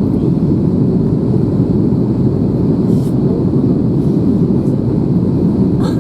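Steady low rumble of an Airbus A321 in flight, the engine and airflow noise heard inside the cabin.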